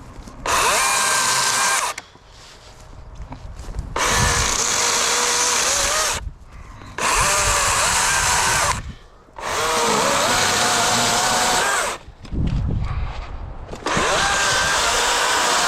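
DeWalt 60-volt brushless cordless chainsaw with a 16-inch bar, cutting firewood logs in five loud bursts. The motor spins up each time the trigger is pulled, its pitch wavers as the chain cuts, and it stops dead between cuts.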